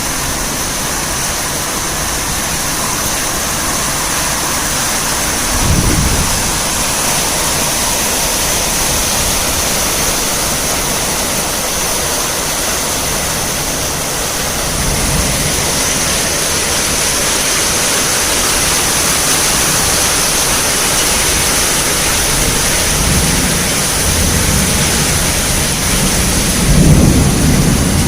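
Heavy rain falling steadily with an even hiss, and short low rumbles about six seconds in and again near the end.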